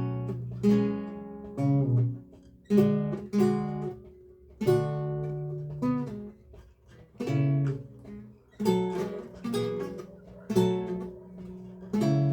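Lute playing a recercar: plucked chords and single notes, each ringing and dying away, with short breaks between phrases.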